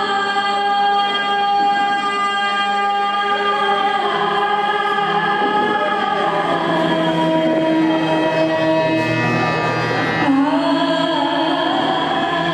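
A woman singing, holding long notes that slide between pitches, with a steady low tone sounding underneath.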